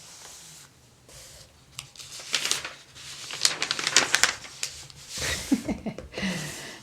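Thin paper catalog pages being turned and handled, rustling and crinkling in a run of crackles, with a brief soft murmur near the end.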